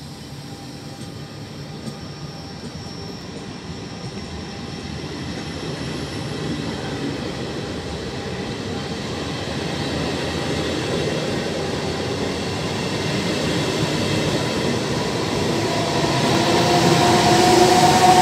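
Trenord electric commuter train running past on the near track, its rumble of wheels on rails growing steadily louder to a peak near the end, where a steady high whine comes in over it.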